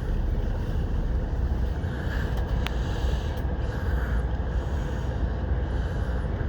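Steady low rumble and hum inside an Amtrak Pacific Surfliner passenger car, with one sharp click about two and a half seconds in.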